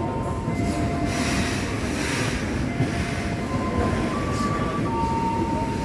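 Freight train wagons rolling past with a steady heavy rumble, while thin high squeals from the wheels come and go.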